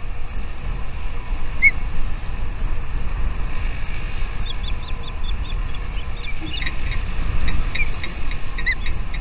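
Small birds chirping: a single clear call about one and a half seconds in, then a run of quick, high chirps, several a second, through the second half. A steady low rumble runs underneath and is the loudest sound.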